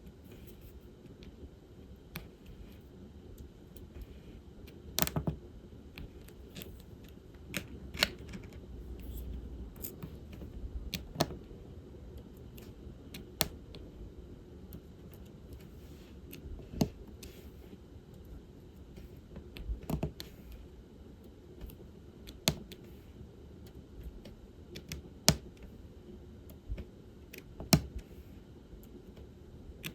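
Irregular light clicks and taps of diamond-painting work: plastic resin drills picked from a plastic tray and pressed onto the adhesive canvas with a drill pen. The clicks come one every second or so, with a handful of sharper, louder ones scattered through.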